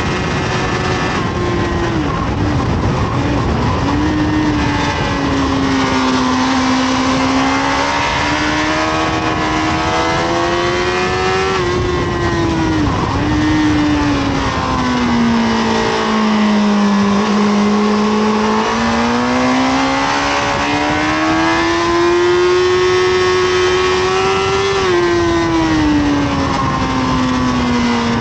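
Honda CBR1000RR (SC57) inline-four engine heard from onboard at track speed. Its note climbs and falls with the throttle, dropping suddenly at several gear changes, with a long slowdown in the middle followed by a steady climb.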